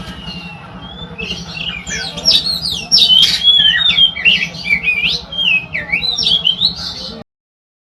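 Oriental magpie-robin (kacer) singing a fast, varied song of whistles and sliding notes. The song grows louder about two seconds in and cuts off suddenly near the end. A steady low hum runs beneath it.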